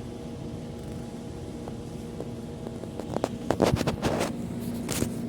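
A steady low hum, then a cluster of sharp clicks and rustling about three seconds in, with another rustle near the end.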